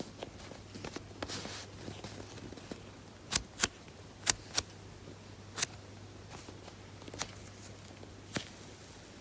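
Hands handling a foam squishy toy: a soft rustle, then about seven sharp clicks or taps, the first two pairs coming close together, over a low steady hum.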